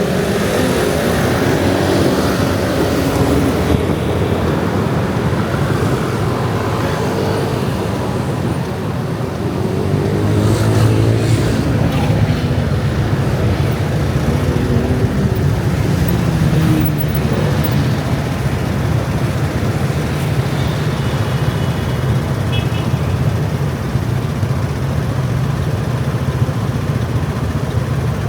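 Dense rush-hour traffic of motor scooters streaming past, their small engines running together in a steady loud drone that swells and fades as groups of scooters go by.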